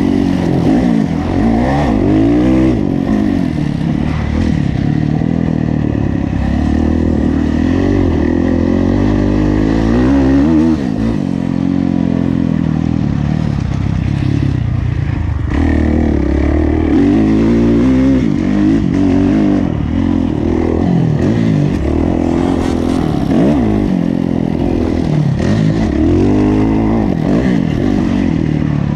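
Kawasaki KX450F single-cylinder four-stroke motocross engine under race load, its revs climbing and falling again and again as the rider accelerates and backs off, with clattering from the bike over the rough track.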